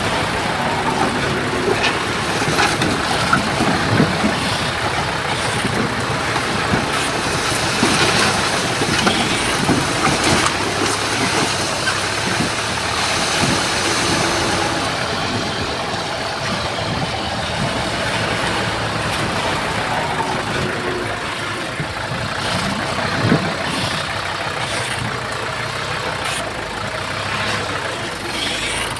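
Diesel engines of heavy earthmoving machinery running steadily, with scattered knocks and clanks.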